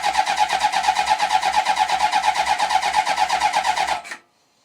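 Motorcycle engine turned over on its electric starter without firing: a fast, even churning that cuts off suddenly about four seconds in. The engine is being cranked to build oil pressure, and enough of it puts out the oil-pressure warning light.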